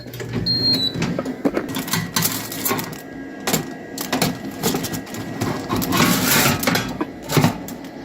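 Clicks, knocks and clatter from a tray of chicken being put into an oven, with a short high electronic beep about half a second in.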